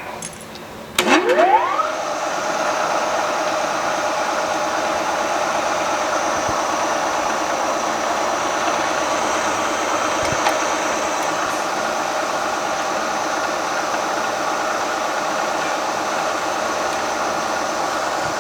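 Milling machine spindle spinning up with a rising whine about a second in, then running steadily as a drill bit cuts into a very hard steel crankshaft, with a steady hiss and several steady machine tones.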